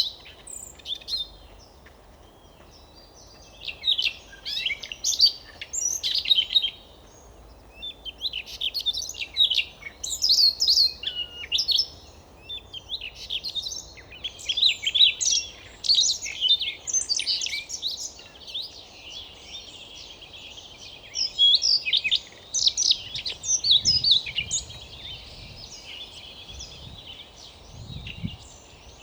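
Siberian rubythroat singing: phrases of rapid, high, varied notes lasting a few seconds each, with short pauses between them.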